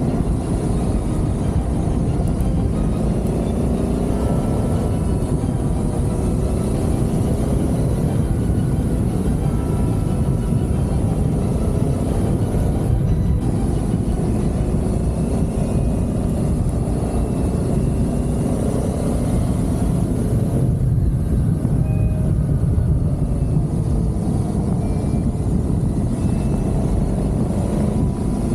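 Adventure motorcycle being ridden: its engine note rises and falls with throttle and gear changes under a heavy, steady rush of wind and road noise.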